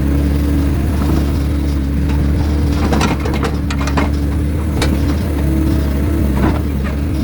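Heavy diesel machinery, an excavator working beside a log truck, running steadily, with a few sharp knocks in the middle and later part.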